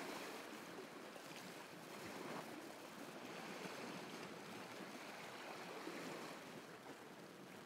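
Faint, steady wash of sea waves against a rocky shore.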